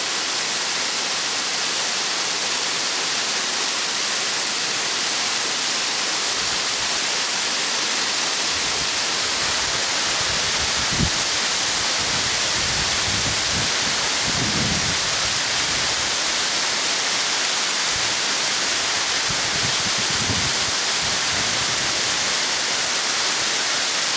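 Waterfall's steady rush of falling water. From about ten to twenty-one seconds in, irregular low thuds and rumbles sound under it, with one sharper knock about eleven seconds in.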